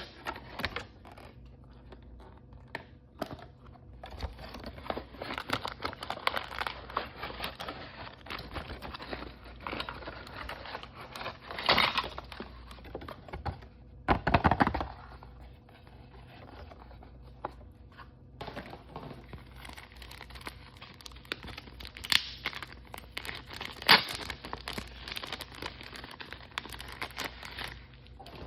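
Toy blind-bag packaging being torn open and crinkled by hand: continuous crackling rustle with sharp clicks, two louder bursts of rustling about halfway through and two sharp clicks near the end.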